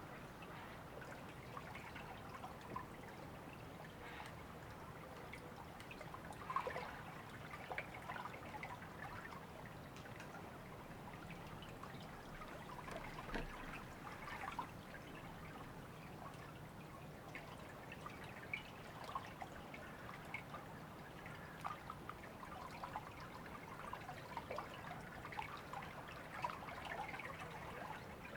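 A river trickling and babbling steadily, with many small irregular splashes and drips over the flow.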